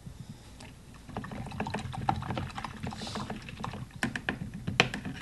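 Typing on a computer keyboard: a run of quick, irregular key clicks starting about a second in.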